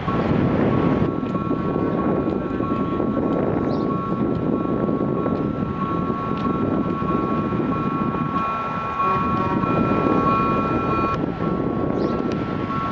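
FGV 2500-series tram-train running by, a steady loud rumble of wheels and running gear. Two high steady tones held together sound over it throughout.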